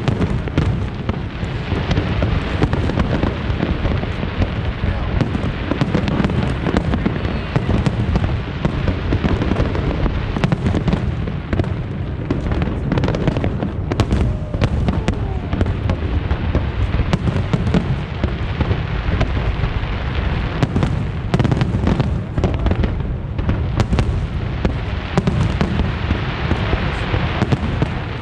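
Large fireworks display: a continuous barrage of aerial shell bursts, booming and crackling with no pause, with crowd voices underneath.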